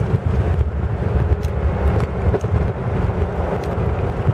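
Bugatti Type 35's engine running steadily as the open car drives along, a dense low rumble, with wind buffeting the microphone.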